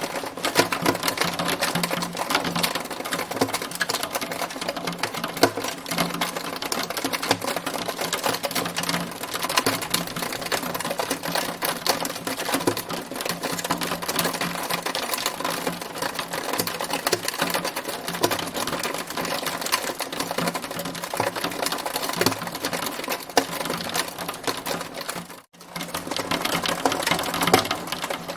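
Hail falling in a dense, steady clatter of rapid small ticks and clicks, with a split-second dropout near the end.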